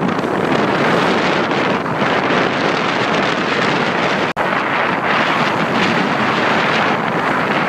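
Strong wind blasting across the camera microphone on a small sailing yacht under way in a force 5 to 6 breeze: a loud, steady roar of wind noise, cut by one brief dropout about halfway through.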